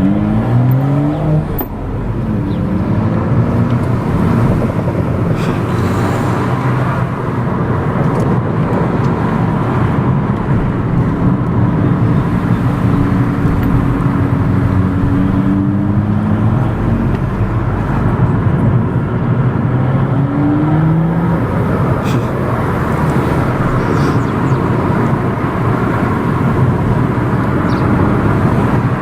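Car engine pulling hard through several quick upshifts, then rising in pitch again under steady acceleration, heard while driving over constant road and wind noise.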